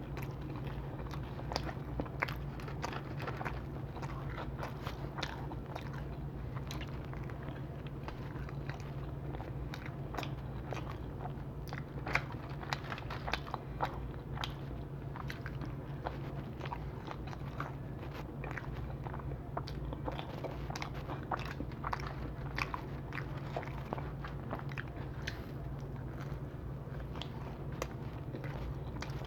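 Close-miked chewing and biting of pizza, a steady run of small crunches and wet crackly clicks from the crust and toppings. A steady low hum sits underneath.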